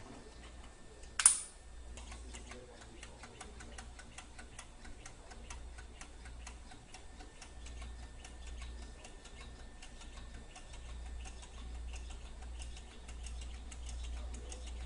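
Small lamina-flow Stirling engine running, its mechanism ticking rapidly and evenly over a steady low hum. A single sharp, loud click comes about a second in.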